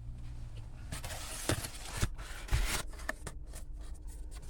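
Rustling, scraping and a few light knocks from handling paper and cardboard food packaging, over a steady low hum inside a car.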